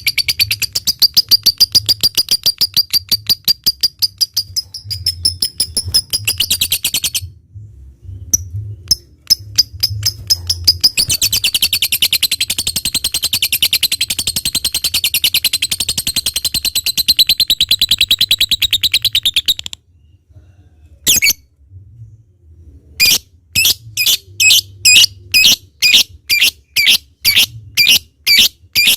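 Lovebird singing: a fast chattering trill of rapid shrill strokes, breaking off briefly twice, then a long unbroken run of the high trill (the 'ngekek'). After a short pause it gives single sharp calls, about two a second.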